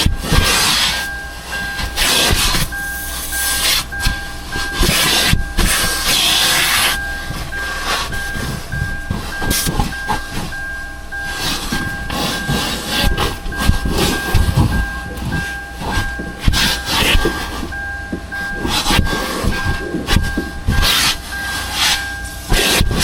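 Car wash vacuum running, its hose hissing as suction surges and drops while the nozzle is worked over the car's interior, over a steady high whine.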